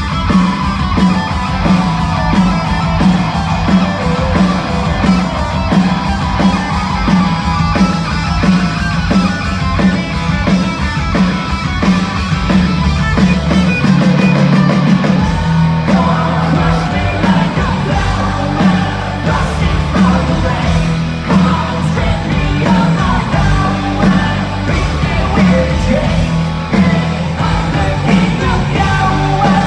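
Live rock band playing loudly, with distorted electric guitars, bass and steady drums, and shouted singing over the top.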